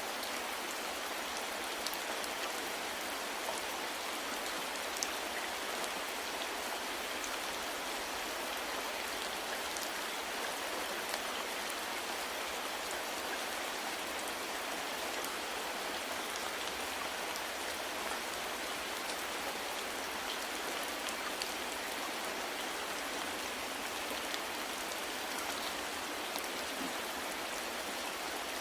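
Steady rain falling, an even hiss with scattered sharp drips of individual drops.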